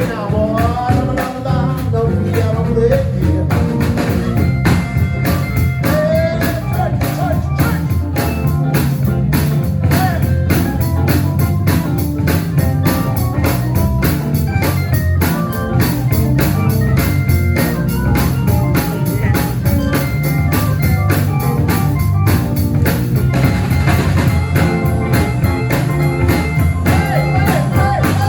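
Live band playing a steady groove, with drums hitting throughout under strong bass. A voice sings short phrases in the first few seconds.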